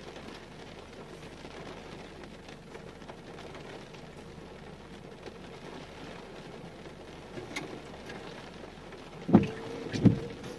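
Steady rain falling on the car's roof, heard from inside the cabin. Two short, loud thumps near the end.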